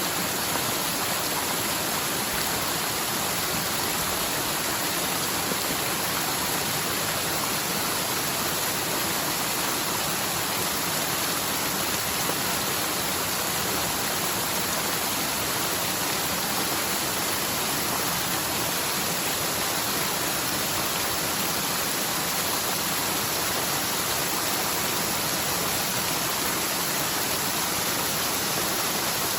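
Forest mountain stream in spate after typhoon rain, its normally almost dry channel running full, with water rushing steadily downhill.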